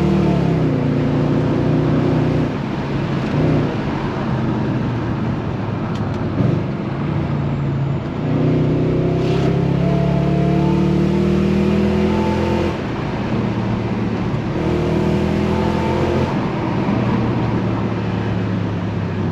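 BMW 740i E38 V8 exhaust under acceleration, its note climbing steadily in pitch through each pull and then dropping abruptly. Two long pulls stand out in the second half.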